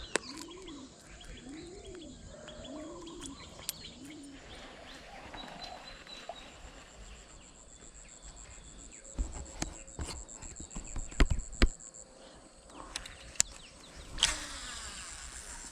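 Outdoor ambience: a bird gives a series of about five low, rising-and-falling hooting calls over the first few seconds, while an insect keeps up a steady high buzz. A few sharp knocks and thumps come near the middle.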